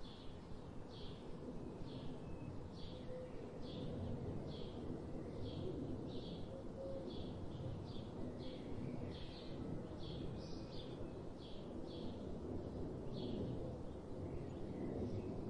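A bird chirping over and over, short chirps repeated roughly one or two a second, over a steady low background rumble.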